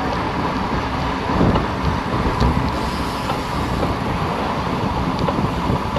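Wind buffeting the microphone: a steady rushing noise with a heavy, uneven low rumble.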